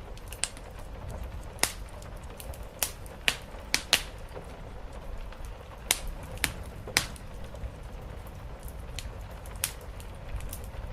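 Wood fire crackling, with sharp pops at irregular intervals, over a steady rush of rain.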